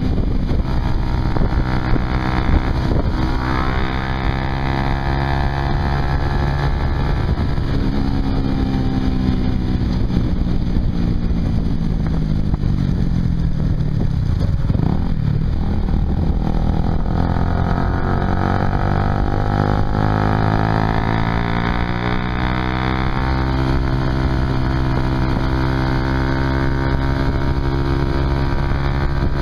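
Honda CBR150R's single-cylinder engine running through a Yoshimura aftermarket exhaust while riding. The engine note falls as the bike slows about halfway through, climbs again as it picks up speed, then holds a steady cruise.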